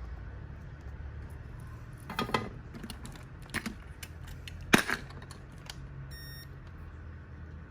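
Sharp clicks and knocks of small tools or parts handled on a repair bench, three of them loud and the last the loudest. A short electronic beep follows about six seconds in, over a low steady hum.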